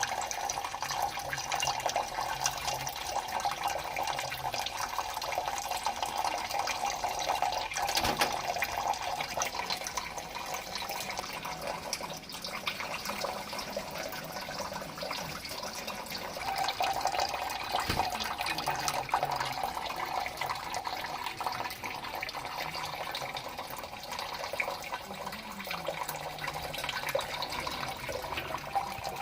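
Water running steadily, with many small splashes and drips.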